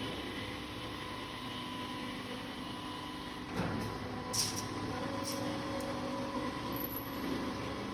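Automatic copper tube end forming and flattening machine running: a steady machine hum with a few sharp knocks and short hisses in the second half.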